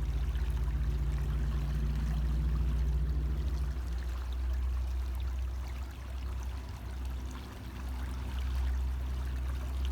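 River current running past, a steady rush and ripple of moving water over a continuous low rumble, with a faint low hum underneath during the first few seconds.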